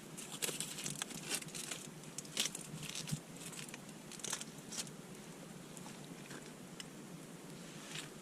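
A person biting and chewing a bagel, giving irregular crunchy clicks that thin out after the first few seconds.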